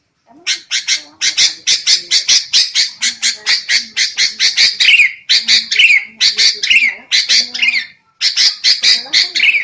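Sooty-headed bulbuls giving rapid, harsh scolding calls, about four to five a second, some ending in a falling note, with a short break about eight seconds in. This is the noisy, agitated 'ribut' chatter that is played as a trapping lure.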